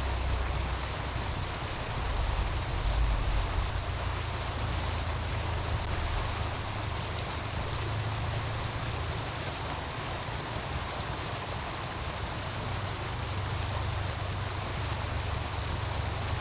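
Wood fire crackling with scattered small pops over the steady rush of a meltwater stream, with an uneven low rumble of wind on the microphone.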